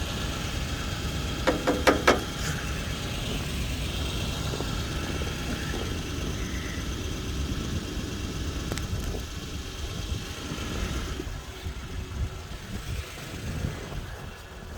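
Lexus GX 470's 4.7-litre V8 idling steadily, with a quick run of four or five sharp knocks about two seconds in.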